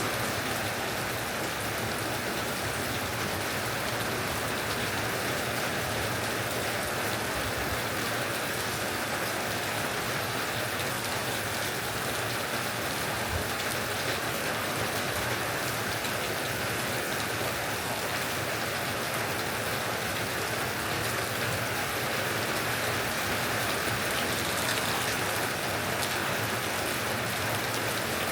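Steady rain from a summer storm falling on surfaces, an even unbroken hiss with no thunder.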